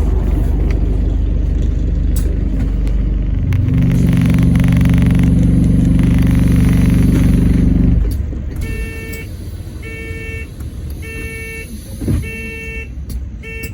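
Alexander Dennis Enviro400 MMC hybrid double-decker bus heard from inside: a low drivetrain rumble, joined about four seconds in by a loud steady low hum that cuts off abruptly around eight seconds. Then five evenly spaced electronic door-warning beeps sound as the bus doors work at a stop.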